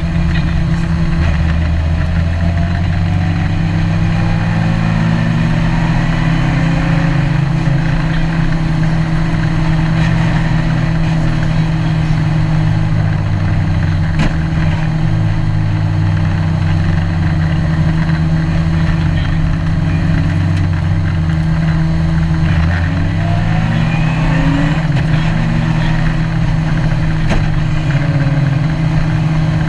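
Ginetta G20 GTR rally car's engine heard from inside the cabin, running at speed with a steady drone; its note rises several times as it accelerates.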